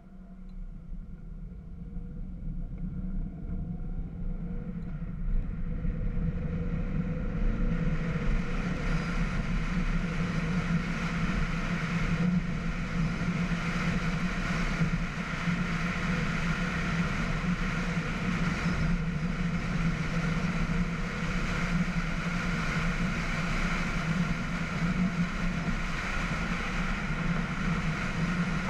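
Volkswagen Scirocco on the move: engine note with road and wind noise, rising in pitch and growing louder over the first several seconds as the car picks up speed, then holding steady.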